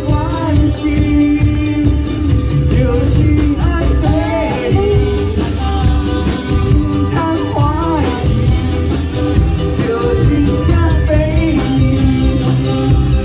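Live band playing an upbeat pop-rock song with a vocalist singing over a steady beat.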